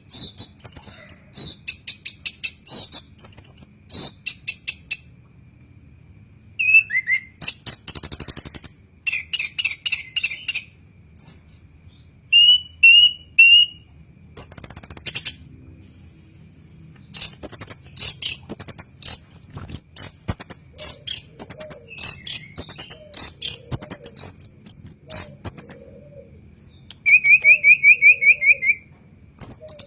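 Chestnut-capped thrush (anis kembang) singing a long run of varied, high-pitched phrases: quick whistled notes and rattling bursts with short pauses, and a buzzy trill near the end.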